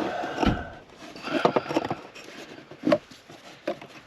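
Scattered knocks, clicks and scraping from parts and wiring being handled in a car's footwell, busiest in the first two seconds.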